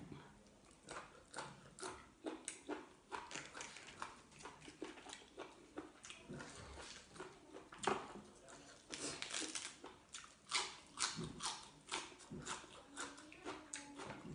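A person chewing boiled pork ear and raw vegetables close to the microphone: irregular sharp crunching clicks and wet mouth smacks, a few a second, with a denser run of louder ones around the middle.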